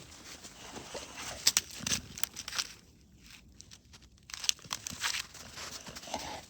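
Dog playing with a wooden stick in snow: irregular crunching and sharp cracks. There is a quieter lull in the middle.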